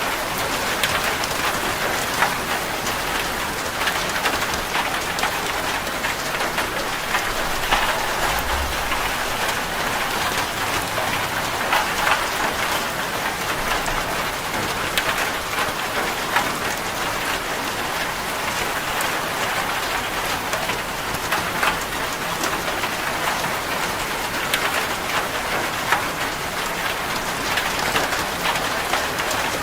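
Rain falling on a corrugated zinc roof: a steady patter with many sharp individual drop hits ticking through it.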